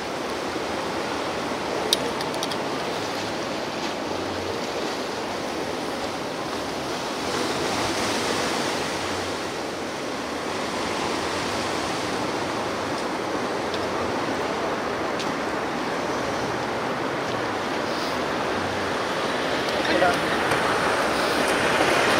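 Ocean surf washing onto the shore in a steady rush, swelling and easing as waves break, with a bigger wave building near the end. A single sharp click about two seconds in.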